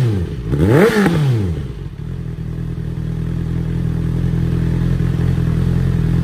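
Honda 650R inline-four fitted with an IXIL full exhaust system: the revs fall from one throttle blip, rise and fall once more in a quick blip, then settle into a steady idle about two seconds in.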